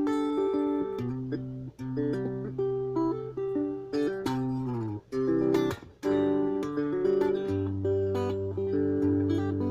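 Ibanez AXS42 guitar played through its pickups, which have been rewired with single-core vintage wire. Chords and single notes ring out and change every second or so, with a few sharp strums.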